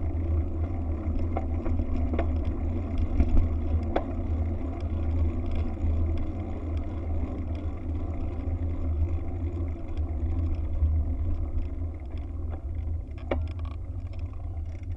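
Wind buffeting the camera microphone during a bike ride, a steady deep rumble, with a few faint ticks.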